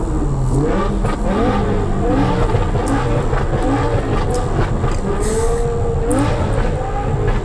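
Chevrolet Corvette C8 Z06 with an aftermarket exhaust, its 5.5-litre flat-plane-crank V8 revving, the pitch climbing and dropping several times as it accelerates and shifts.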